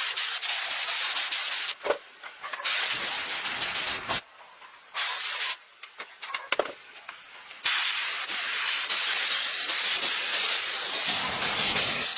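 A loud, steady hiss like a jet of spray, cut off and resumed three times with gaps of about one to two seconds.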